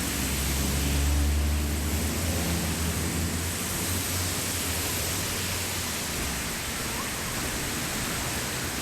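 Floodwater rushing steadily into a cleared culvert drain. A low rumble sits underneath, loudest about a second in, then fading.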